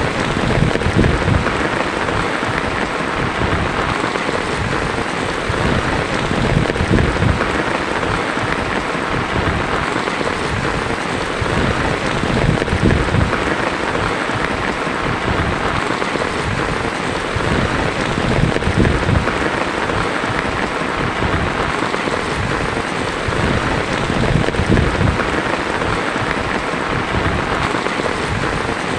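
Heavy rain drumming steadily on a tin roof, a dense even hiss with a low rumble underneath.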